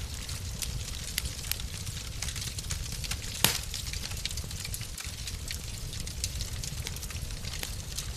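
Fire burning in a fireplace: a steady low rumble with scattered small crackles and one louder pop about three and a half seconds in.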